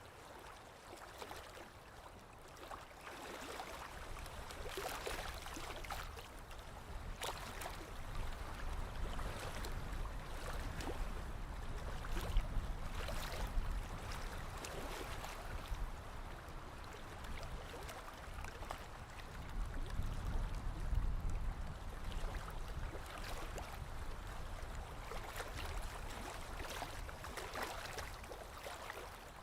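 Small waves lapping on a lakeshore: irregular soft splashes over a low rumble that swells twice, about twelve and twenty seconds in.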